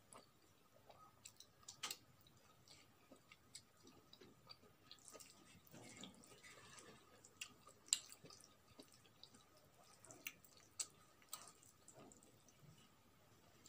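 Faint close-up eating sounds: chewing with wet mouth clicks and lip smacks, a few of them sharp, and the soft squish of rice being mixed and gathered by hand.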